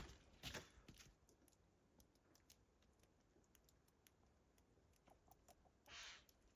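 Near silence, with a few faint clicks in the first second and a short soft hiss about six seconds in.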